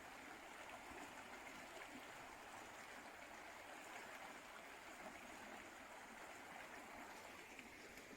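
Faint, steady rush of the Ovens River's flowing water.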